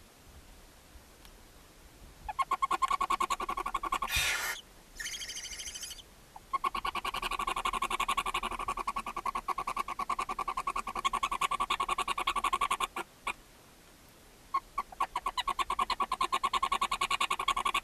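Animal calls: long runs of fast, evenly pulsed trilling, broken about four seconds in by a short, harsh screech and a hiss.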